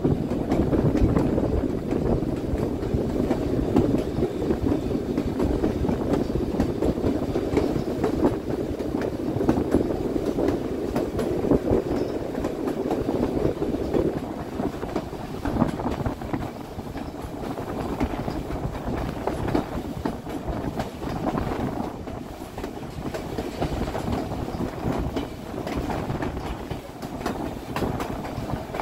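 Narrow-gauge passenger train rolling along the track, heard from aboard one of its cars: a steady rumble of wheels running on the rails, a little quieter in the second half.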